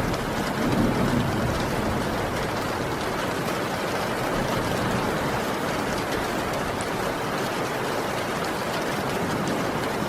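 Heavy rain falling steadily, a dense even hiss with scattered sharp drop ticks. A low rumble swells briefly about a second in.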